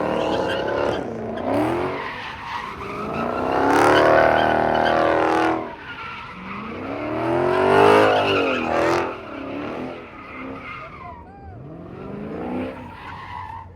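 A muscle car engine revving hard in repeated sweeps up and down while its tyres spin and squeal in a burnout or slide, the loudest revs about four and eight seconds in and a weaker one near the end.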